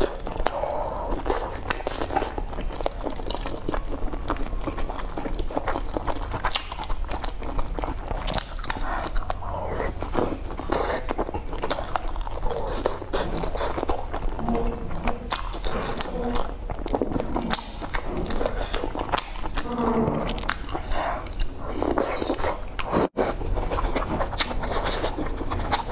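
Close-miked eating: chewing and biting food from a spicy hot pot, with wet mouth sounds and many small clicks throughout.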